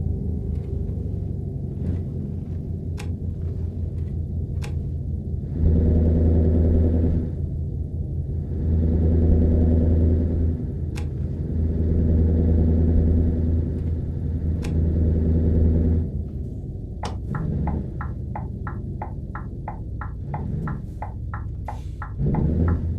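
Scania V8 diesel truck engine idling with a deep rumble and being revved up in three long blips. Over the last few seconds a fast, regular ticking, about three to four ticks a second, runs alongside the idle.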